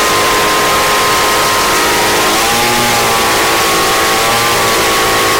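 Craftsman 29cc handheld leaf blower's two-stroke engine running on an aftermarket Chinese-made spark plug, holding a steady speed, then dropping slightly in pitch a little over two seconds in.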